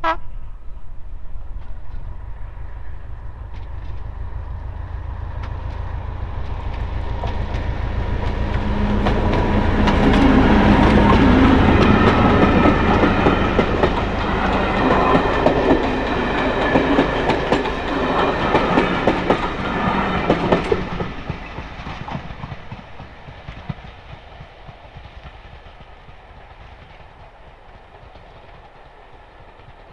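Class 73 electro-diesel locomotive 73140 running on its diesel engine, hauling coaches past. The drone builds as the train approaches and is loudest about ten seconds in. Wheels click over the rail joints as the coaches go by, then the sound fades away from about twenty seconds in.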